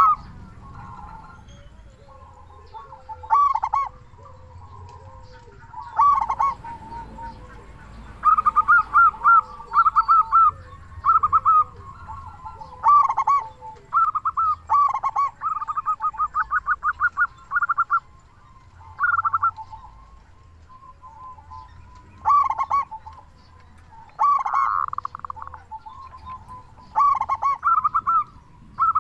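Male zebra dove (perkutut) cooing: bursts of quick, staccato cooing notes in repeated phrases every few seconds, with a long run of rapid notes in the middle.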